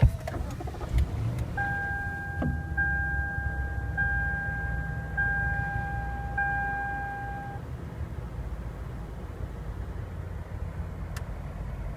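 Lexus LS 460's 4.6-litre V8 starting at the push of the start button and settling into an idle, its note easing down after about seven seconds. Over the first several seconds a two-tone dashboard warning chime sounds five times in a row, each beep about a second long.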